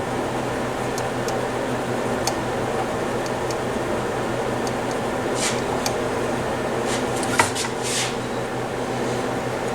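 Steady hum and hiss of a room heater running, with scattered small clicks and a few short hissing spray bursts of contact cleaner being sprayed into the receiver's volume control; the sharpest click comes a little past seven seconds in.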